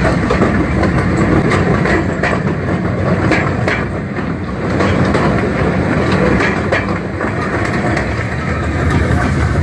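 Zoo train running along its track, heard from aboard a passenger car: a steady rumble with scattered clacks of the wheels over the rails.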